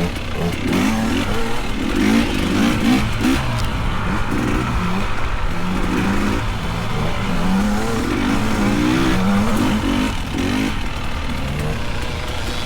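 Dirt bike engine revving up and down over and over, its pitch rising and falling every second or so as the throttle is worked on the trail, over a steady low rumble.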